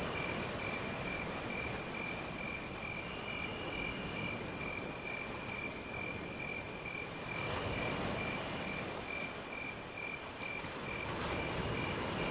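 Night insect chorus: a cricket chirping steadily at about three chirps a second, with a higher, hissing insect trill that comes in stretches of a second or so with short breaks, over a steady background hiss.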